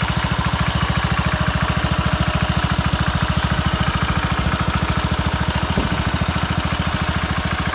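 1953 Country Squire garden tractor's small engine running at a steady idle, an even, fast beat of firing strokes.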